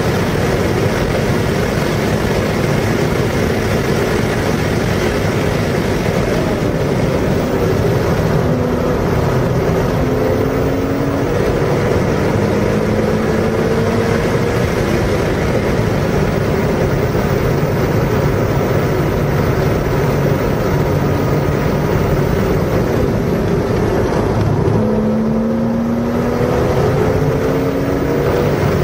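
Car engine under hard acceleration on a race track. Its pitch climbs and drops back at each gear change, several times, over loud, steady wind and road noise.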